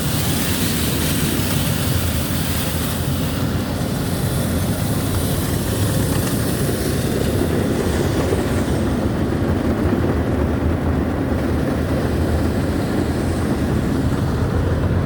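Automatic car wash's rotating brushes scrubbing over the car, heard from inside the cabin as a steady, dense rumble with spraying hiss. The hiss thins out about two-thirds of the way through.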